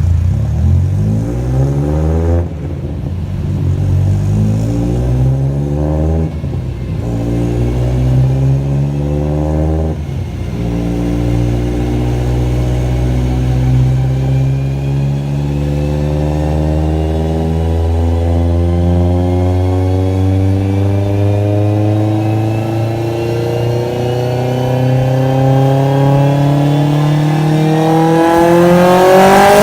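Subaru STI's built, tuned turbocharged flat-four engine accelerating hard through the gears. The engine note climbs and drops sharply at three gear changes in the first ten seconds, then rises in one long, slow pull.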